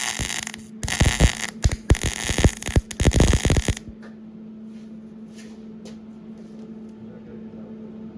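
Welding arc crackling on mild-steel exhaust pipe in short runs with brief breaks, then stopping about four seconds in, leaving a low steady hum and a few faint ticks.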